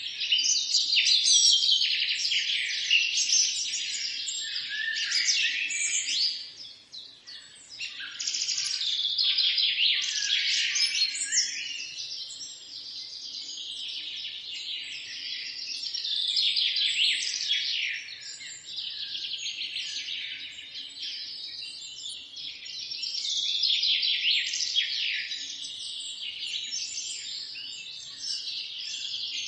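Several songbirds singing and chirping at once in a dense, overlapping chorus of quick trills and short calls, briefly thinning out about six seconds in.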